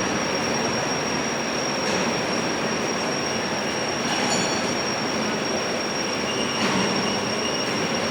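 Copper melting furnace running: a steady noise with a constant high-pitched whine held above it.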